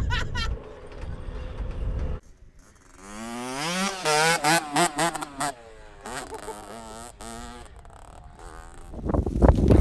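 A motorcycle engine revving up, then blipped several times in quick succession before dropping back. Wind noise comes in near the end.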